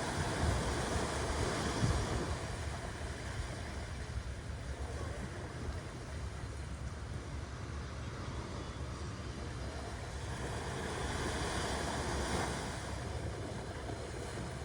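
Ocean waves washing onto a beach, a steady surf noise with a low rumble that swells at the start and again about ten seconds in.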